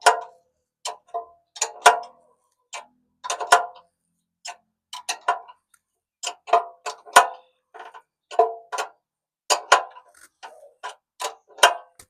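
Irregular sharp metallic clicks and clinks, singly and in short clusters about once or twice a second: hand tools and bolt hardware working on a steel bumper.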